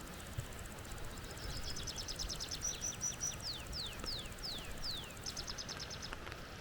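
A songbird singing a varied phrase: a rapid run of high notes, a few short held notes, then five falling whistles and another quick run, over a steady background hiss.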